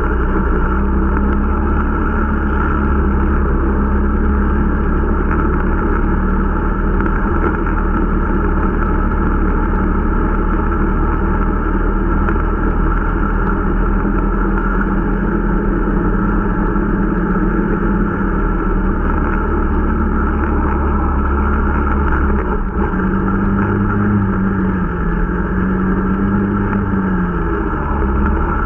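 Irbis Dingo T125 snowmobile's small single-cylinder four-stroke engine running steadily under throttle while riding, its pitch shifting a little after about two-thirds of the way through. The engine is being run in.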